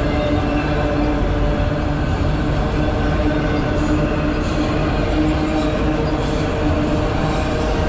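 Freight train rolling past at close range: a steady, loud rumble of wheels on the rails with a steady hum underneath.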